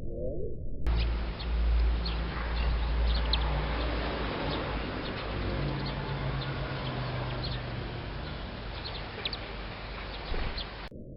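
Small wild birds chirping: scattered short, high, sharp calls over a steady low rumble. The sound starts abruptly about a second in and stops just before the end.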